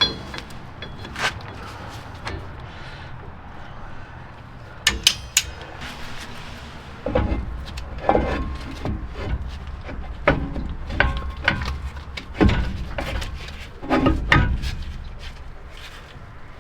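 Metal parts and hand tools knocking and clanking during rear brake work on a 1970 Chevrolet C10: irregular sharp knocks and clicks, busier and heavier from about halfway through.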